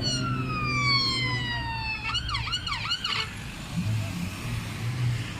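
Police car siren: a long falling wail that switches to about a second of fast yelp, then stops about three seconds in. A steady low engine rumble runs underneath.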